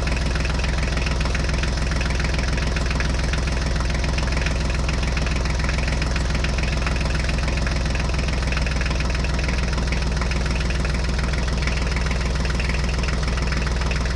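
Diesel tractor engine running steadily at idle, an even rapid knocking putter.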